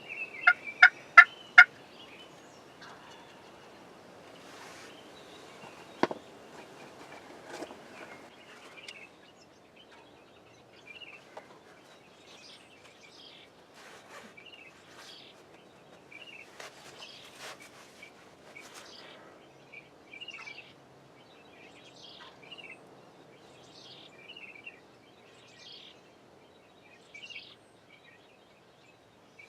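Wild turkey calling: a run of four loud, sharp, evenly spaced notes about a second in, then a single sharp click a few seconds later, with small songbirds chirping faintly throughout.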